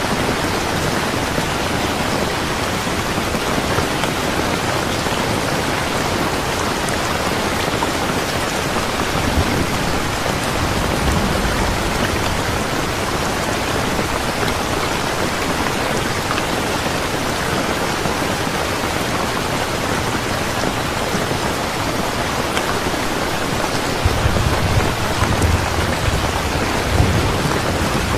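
Steady heavy rain, with low rumbles of thunder about ten seconds in and again for the last few seconds.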